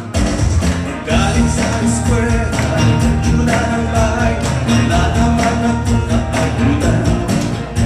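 Live band music: a full band playing a song, with a steady drum beat under sustained pitched instrument lines.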